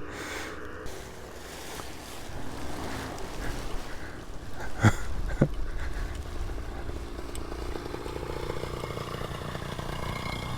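Paramotor engine running steadily, with two sharp knocks about five seconds in.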